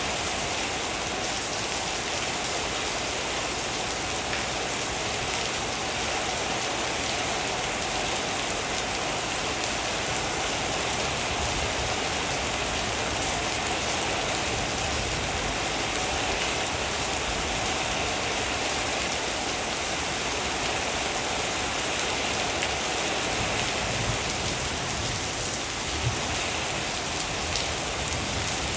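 Heavy rain falling steadily, an even hiss of rain hitting surfaces. A few brief low knocks come near the end.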